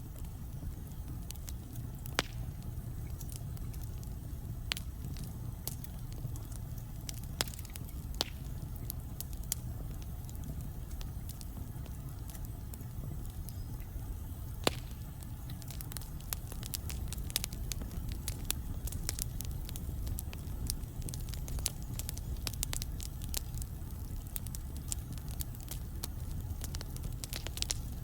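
Wood logs burning in a fireplace: a steady low rumble of flame with sharp crackles and pops. The pops are few at first and come much more often from about halfway through.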